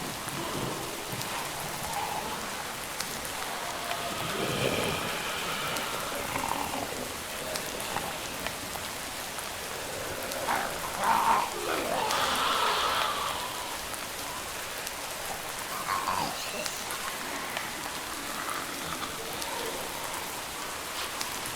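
Steady rain falling, with a few louder swells, the loudest about eleven seconds in.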